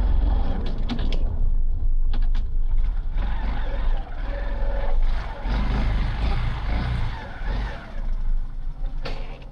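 A motor vehicle running on the move, with a strong low rumble and a few sharp clicks.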